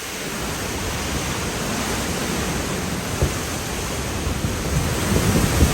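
Hurricane wind and rain as a steady rushing noise, with gusts buffeting the microphone near the end.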